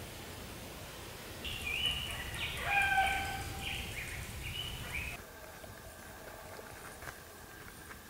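Bird song: a phrase of clear whistled notes, some sliding, starting about a second and a half in over a low rumble. Both cut off abruptly about five seconds in, leaving faint outdoor background with a thin steady high tone.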